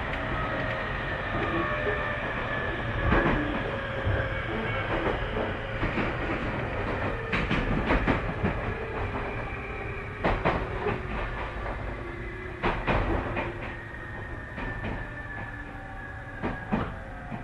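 On-board running sound of a Tobu 30000 series electric train: the motor and inverter whine is pitched as several tones that fall slowly and steadily as the train slows. Wheel clacks over rail joints sound at irregular intervals.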